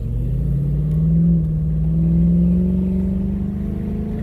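Cadillac STS Northstar V8 with its mufflers deleted, heard from inside the cabin while driving, pulling in one gear with its drone rising slowly in pitch. It is fairly subdued: barely loud, and to the owner it sounds like a V6 on the inside.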